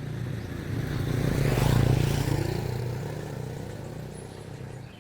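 A motor vehicle's engine going past, swelling to its loudest about two seconds in and then fading away.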